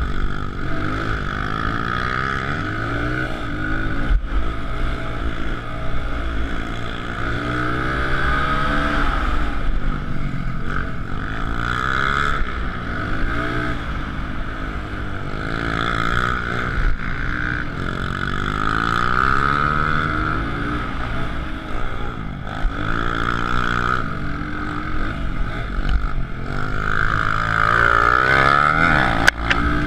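Small single-cylinder four-stroke pit bike engine of a Suzuki DR-Z125L revving up and down repeatedly as it runs through the gears, with more than one engine's pitch rising and falling at once.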